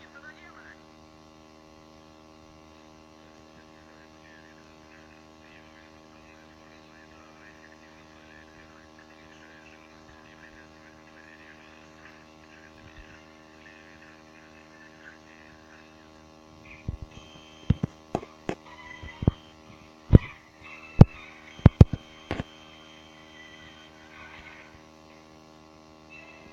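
Steady electrical hum, joined about two-thirds of the way through by a run of about a dozen sharp knocks or clicks over roughly five seconds.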